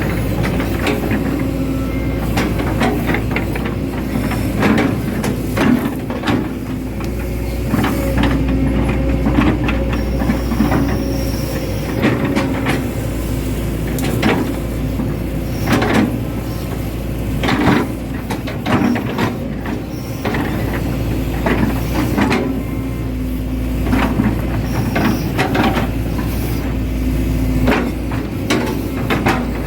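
Hitachi Zaxis 110 hydraulic excavator's diesel engine running steadily under work, with frequent irregular knocks and clanks from the digging.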